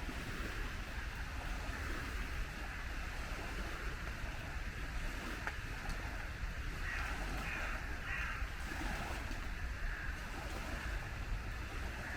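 Steady rain hiss over a low rumble, with a bird calling a few times about seven seconds in.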